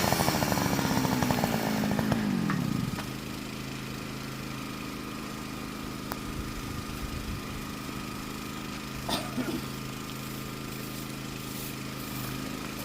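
Partner Farmer two-stroke chainsaw engine coming down off full revs over the first few seconds, then settling into a steady idle. A couple of faint knocks about nine seconds in.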